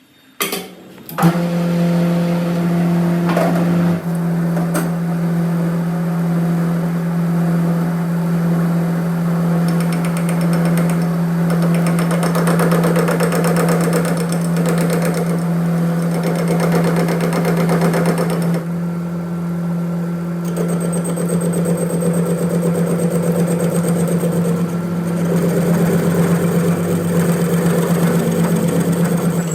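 A workshop machine starts about a second in with a click and runs with a steady, even hum. A rougher, rattling noise rises and falls over the hum through the middle and again near the end.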